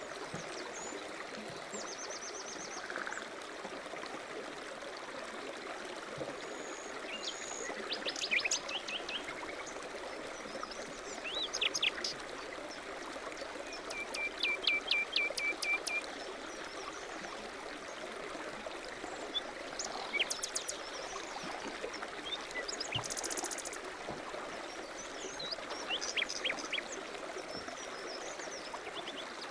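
A stream running steadily, with birds calling over it in several short bouts of quick repeated notes and trills.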